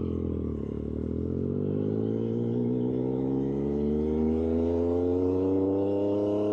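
Triumph Street Triple 765RS's three-cylinder engine through an aftermarket SC-Project exhaust, pitch dipping briefly, then rising steadily for several seconds as the bike accelerates.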